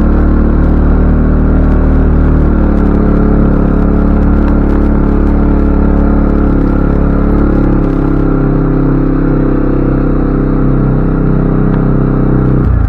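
CFMoto ATV engine running steadily while riding, changing pitch a couple of times, then easing off to a slow, pulsing idle near the end.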